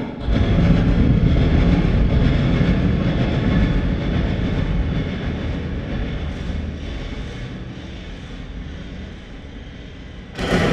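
DIY piezo-pickup noisebox (springs and a doorstop on a wooden box), processed through audio software into a dense, low, engine-like drone that slowly fades over about ten seconds. A louder burst of the same kind of sound cuts in just before the end.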